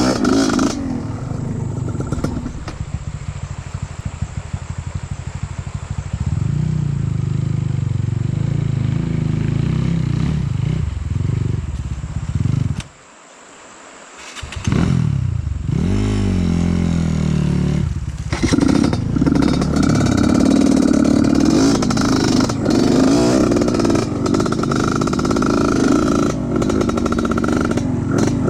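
Off-road trail motorcycle engine running and revving, its pitch rising and falling with the throttle. About halfway through, the sound drops off sharply for a second or two, then picks up again and runs loud.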